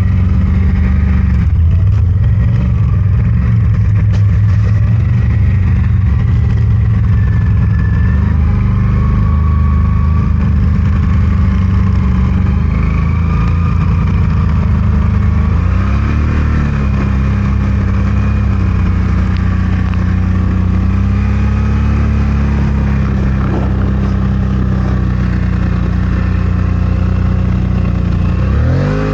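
CFMOTO Gen 3 1000's engine running under steady load as it drives through deep snow, its pitch wandering slightly up and down. There is a brief rise and fall in revs about halfway through.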